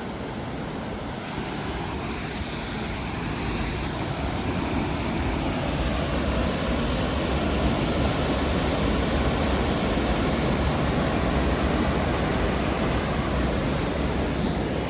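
Waterfall water rushing steadily at High Force, a waterfall on Aira Beck. It grows louder over the first half and eases a little near the end.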